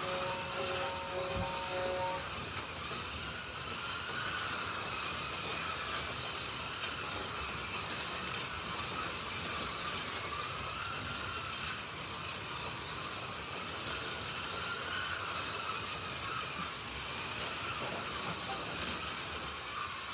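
Electronic start tones sound for about the first two seconds, then several Slot.it 1/32-scale slot cars run around the track, their small electric motors whining and rising and falling in pitch as they speed up and brake for the corners.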